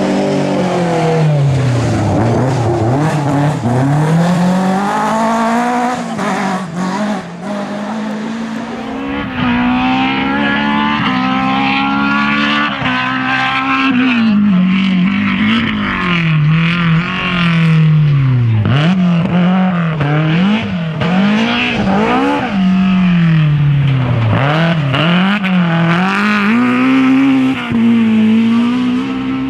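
Historic rally car engines at full throttle on a stage. The revs climb and drop over and over through gear changes and lifts for corners.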